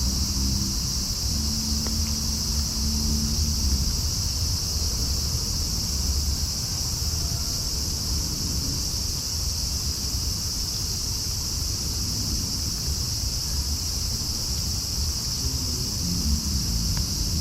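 A steady, high-pitched chorus of night insects such as crickets, over a continuous low rumble of distant traffic.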